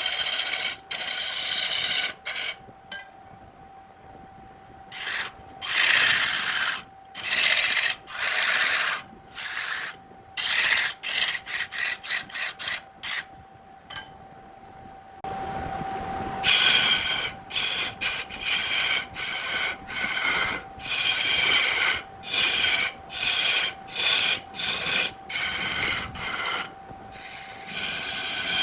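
Turning tool cutting a spinning burl on a wood lathe, a rasping scrape in many short strokes that start and stop abruptly, with a faint steady tone underneath.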